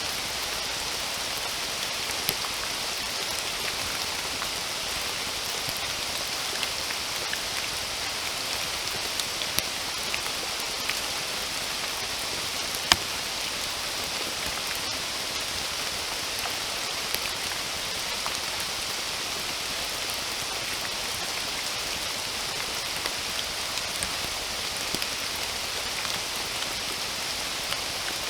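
Steady rain falling in a forest: an even hiss, with scattered louder drops ticking on near surfaces and one sharper drop about halfway through.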